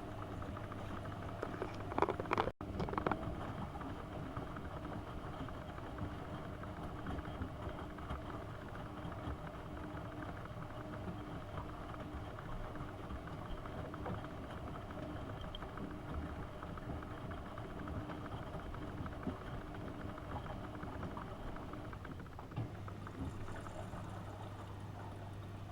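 AEG Öko-Lavamat 72520 washing machine running through a boil wash: a steady machine noise with a low hum that fades a few seconds in and comes back near the end.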